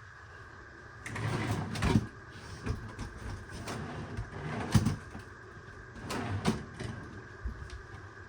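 Freezer drawer slide rails and mechanism being handled: irregular knocks and sharp clicks with sliding and scraping between them, the loudest knocks about two, five and six and a half seconds in.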